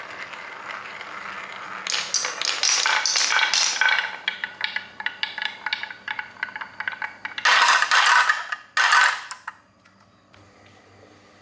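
Rapid clicking and rattling of small hard toy pieces knocking together, with two louder scraping rushes near the end.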